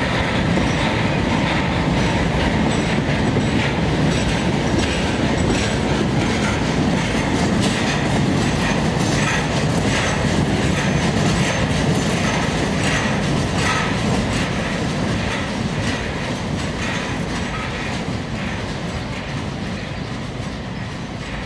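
Railcars rolling past: steel wheels rumbling and clicking over the rail joints as a nuclear cask flatcar and a caboose go by. The sound fades over the last several seconds as the cars move away.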